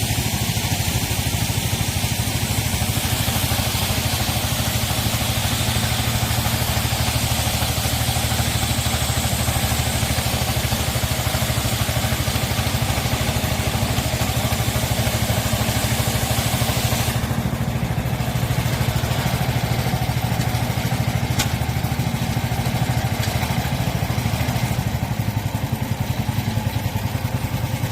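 Orchard air-blast speed sprayer being test-run after repair: its engine runs steadily while the fan blows spray, a broad hiss over the engine's hum. About 17 s in, the hiss gets thinner in the upper range.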